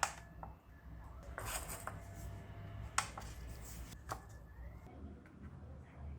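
Small handling sounds from workshop work: a few sharp clicks and knocks, with a brief rustle between them, over a low steady hum.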